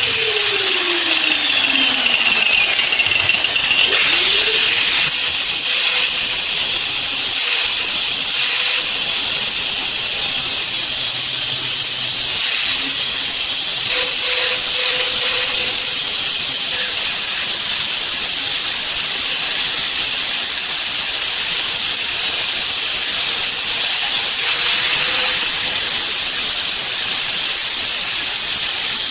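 A loud, steady hiss, mostly high-pitched, running without a break.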